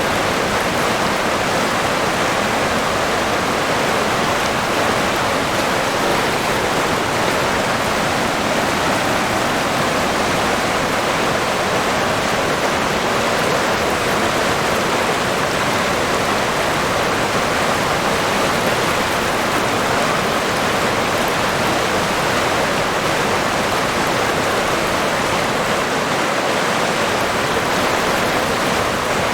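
River water flowing over rocks, a steady even rushing and babbling with no let-up.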